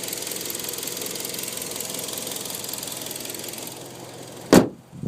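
2011 Kia Sportage's 2.4-litre four-cylinder idling in the open engine bay with a fast, fine ticking. About four and a half seconds in, a single loud slam, the hood being shut, after which the engine is much quieter.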